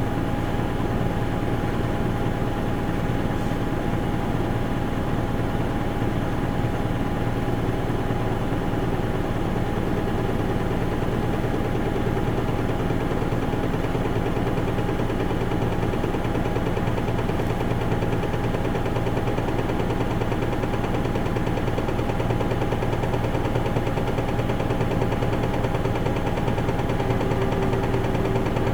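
Isuzu Erga Mio city bus's diesel engine running steadily, heard from inside the passenger cabin, with a steady low hum and a constant whine.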